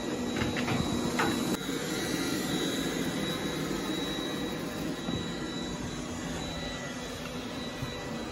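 TECBOT lidar robot vacuum cleaning, a steady whirring hum with a thin high whine, nice and quiet as it moves around. A few light clicks come in the first second or so.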